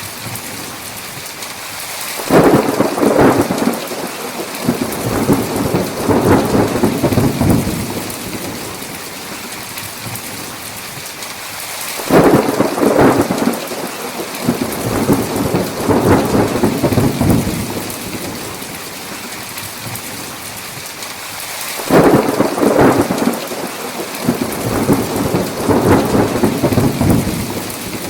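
Steady heavy rain with three rolls of thunder about ten seconds apart. Each starts with a sudden crack and rumbles for about five seconds before fading back into the rain.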